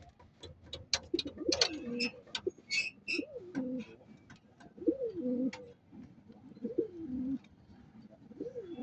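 Domestic pigeons cooing: five low coos, each rising then falling, repeated about every second and a half to two seconds. Many sharp clicks and taps sound in between.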